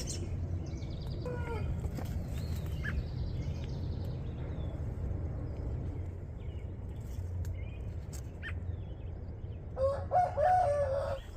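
A rooster crows once near the end, a loud call of about a second and a half. Small birds chirp sparsely throughout, over a steady low rumble.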